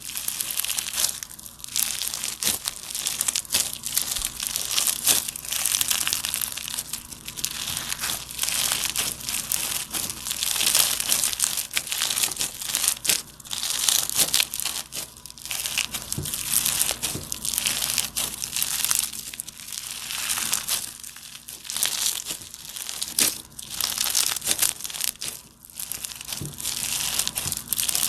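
Slime being squeezed and worked by hand, giving a dense crackling, crinkling noise of many small pops that swells and eases every second or two.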